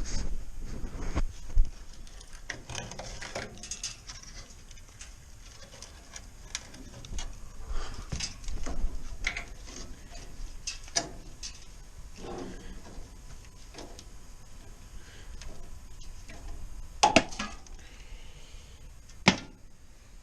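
Scattered knocks and clicks of things being handled, with two sharper knocks near the end.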